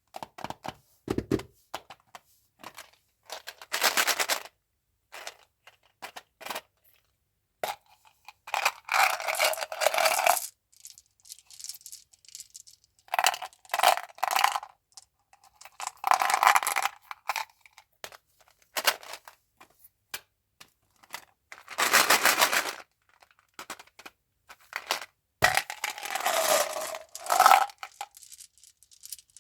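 Chewing gum and candy packaging being handled and opened: plastic wrappers crinkling, tearing and scraping, with sharp clicks, in irregular bursts of a second or two with short pauses between them.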